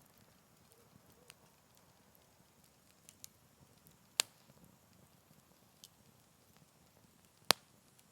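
Campfire of burning wood crackling softly, with scattered small snaps and two sharp, loud pops, about four seconds in and near the end.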